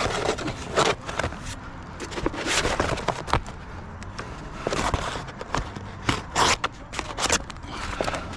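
Irregular scrapes and knocks of hand work on a shingle roof, with a steady low hum underneath.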